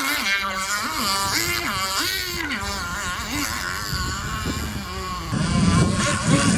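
Small nitro two-stroke engine of an RC jet ski running on the water, its pitch rising and falling again and again as the throttle is worked. From about five seconds in, a louder rushing noise joins it.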